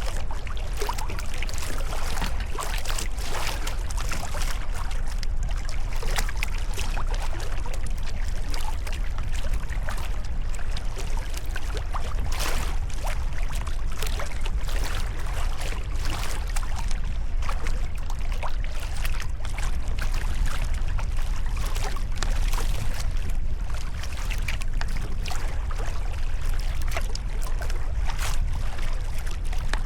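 Sea kayak paddle blades dipping and splashing in the water, with water trickling off the blades between strokes, over a steady low rumble.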